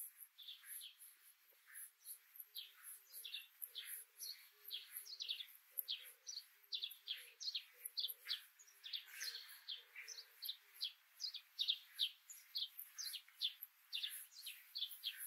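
Small birds chirping: many short, quick, downward-sliding chirps, several a second, overlapping from more than one bird.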